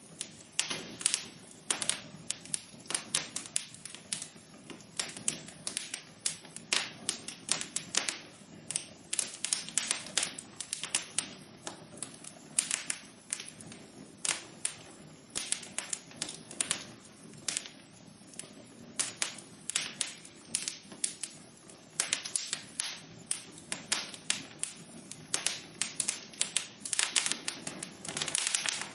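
Wood fire in a fireplace crackling: many irregular sharp pops and snaps, several a second, over a low steady hiss of burning.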